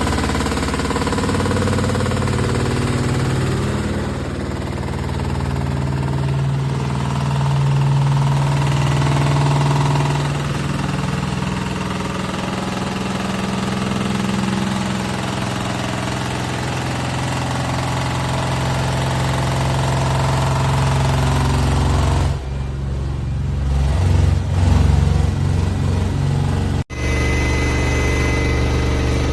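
Washing machine running, a steady mechanical hum of low tones that drift slightly in pitch. The sound changes abruptly about three quarters of the way through and cuts out for an instant a few seconds later.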